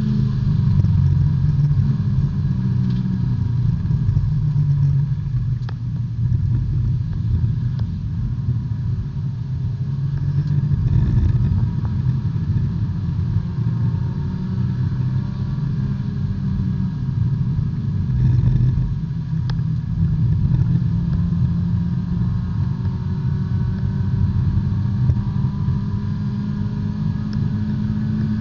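B-Spec subcompact race car's engine at racing speed, heard from inside the cockpit, its pitch rising and falling with gear changes and throttle through the corners.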